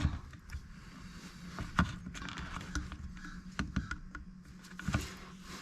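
Scattered light clicks and taps of small hand tools and chainsaw parts being handled, over a faint steady hum.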